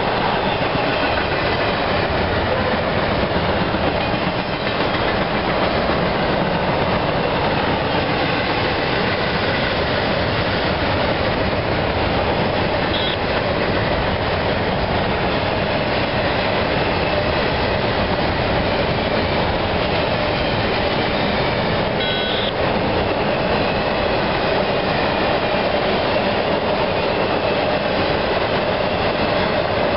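CSX intermodal freight train's trailer- and container-carrying flatcars rolling past, a steady rumble of wheels on rail. Two brief, faint high squeals come partway through.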